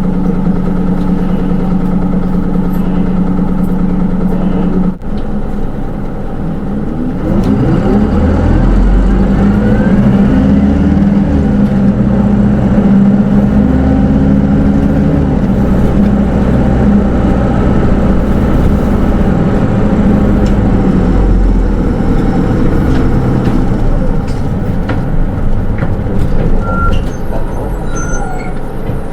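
Interior running sound of a Hino Rainbow II SDG-KR290J1 diesel bus with automatic transmission: the engine hums steadily, dips sharply about five seconds in, then rises in pitch as the bus pulls away and runs louder through a couple of gear changes before easing off in the second half.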